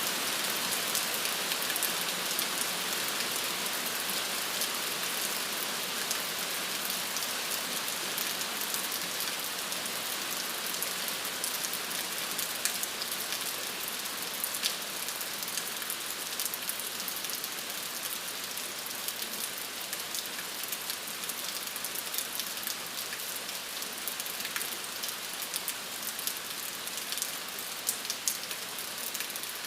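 Steady rain falling and pattering on a surface, with scattered individual drop ticks over an even hiss.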